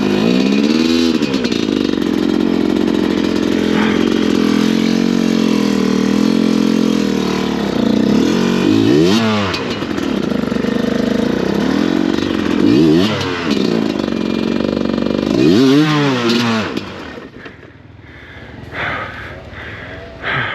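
Enduro dirt bike engine revved hard again and again, climbing and falling in pitch, with the bike stuck in a hole. The engine note drops away near the end.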